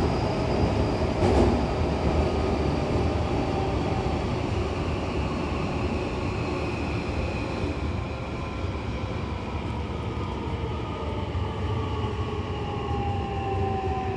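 Hankyu commuter train running, heard from inside the carriage: a steady rumble of wheels on rail with several motor whine tones falling slowly in pitch as the train slows into a station. A single click sounds about a second in.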